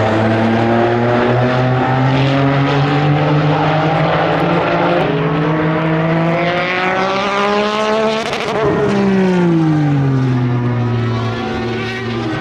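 Jaguar XJR-11's 3.5-litre twin-turbocharged V6 race engine at speed: its note climbs in pitch as the car approaches, then drops away as it passes about eight seconds in, and starts rising again near the end.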